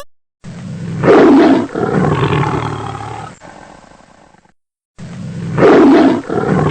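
Tiger roaring twice, the same roar repeated about four and a half seconds apart. Each is loud and rough, swells quickly and trails off over about three seconds.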